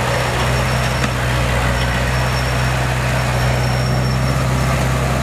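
Heavy-equipment diesel engine running steadily with a deep, even hum, and a faint high whine that comes and goes.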